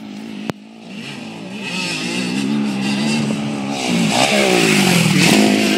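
Motocross dirt bike engine running and revving, its pitch rising and falling as the throttle is worked, louder from about four seconds in. There is a sharp click about half a second in.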